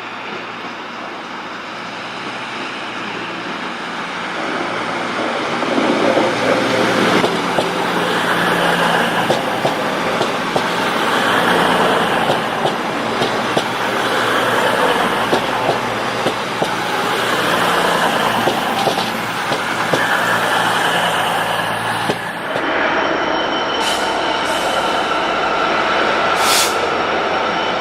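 A train running through the station on the line, growing louder from about four seconds in with a steady rumble and regular small knocks. Near the end the noise thins to several steady high-pitched tones, with two short hisses.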